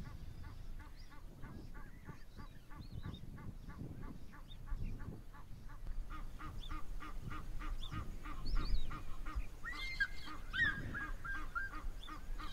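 Birds calling: a fast, even series of short repeated notes, about three a second, getting louder about halfway through, with a higher, drawn-out gliding call near the end.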